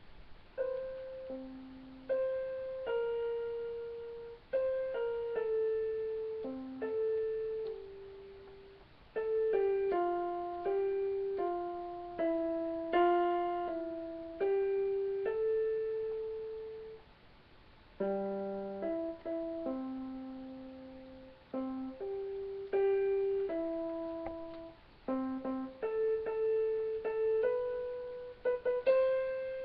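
Piano picking out a slow single-line melody one note at a time, each note struck and left to fade, with a few short pauses: a choir's vocal part played for the singers to learn.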